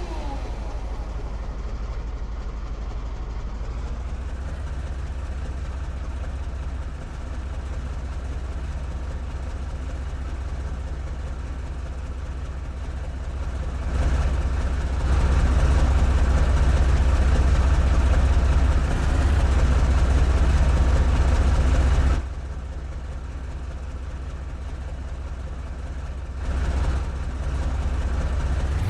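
Steady low rumble of a tornado's roar, like a passing freight train. It swells much louder about halfway through and drops back sharply a few seconds later.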